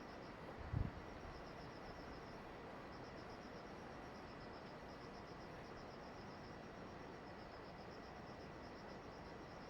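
Crickets chirping in rapid pulsed trills with short pauses, over a steady hiss, with one brief low thump about a second in.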